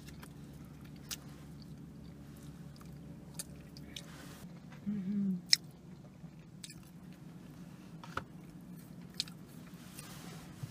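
Two people chewing and biting soft molasses buns close to the microphone: scattered wet clicks and smacks over a low steady hum. A short hummed voice sound about five seconds in, followed by a sharp click.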